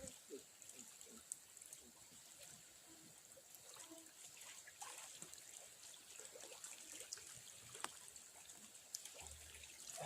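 Near silence: faint outdoor ambience with light water trickling, a steady high hiss and a few faint scattered ticks.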